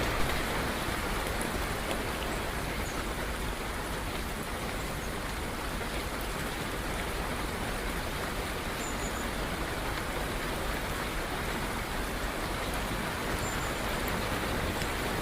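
Steady rain falling, an even hiss of many drops, with a few faint high bird chirps.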